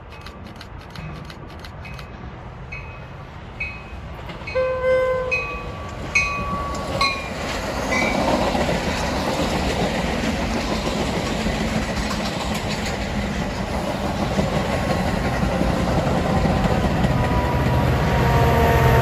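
A train horn sounds in short blasts about five to seven seconds in over a regular dinging about twice a second, then a train draws near and passes with a steadily building rumble and rail noise.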